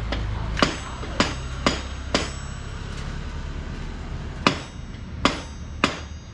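A hammer striking metal: four sharp blows about half a second apart, a pause, then three more, each with a short metallic ring.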